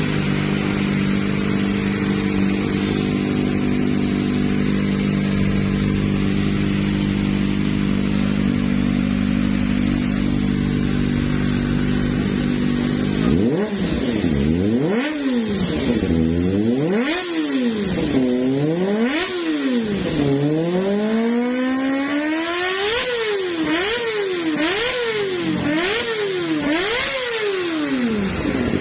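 Kawasaki ZX-25RR's 250 cc inline-four running through an Arrow slip-on racing exhaust: it idles steadily, then about thirteen seconds in it is revved in a series of throttle blips, the pitch climbing high and falling back each time. The blips come quicker, about one a second, near the end.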